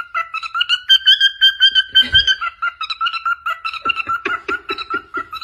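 Two pet birds chirping in a rapid, steady string of calls, about five or six a second, with a higher held call about a second in. There is a brief low thump about two seconds in.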